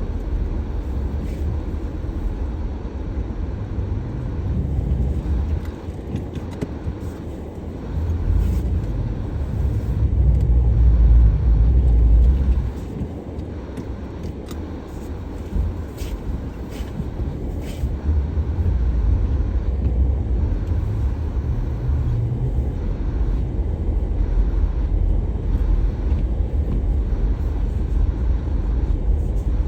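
A car being driven, with a steady low rumble of engine and road noise. The rumble swells louder for a few seconds around the middle, then drops back.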